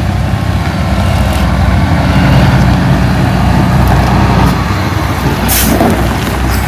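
Heavy diesel earthmoving machine running steadily, its engine drone strong and low. A brief hiss comes about five and a half seconds in.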